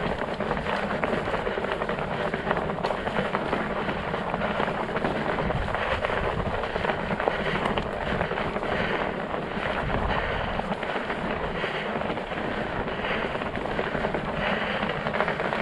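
Studded fat-bike tires rolling over ice and crusted snow: a steady crackling hiss of many small ticks.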